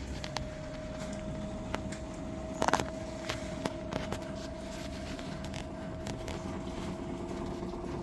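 LG washing machine running with a steady whine over a low hum, with scattered clicks and a brief clatter of knocks between two and three seconds in.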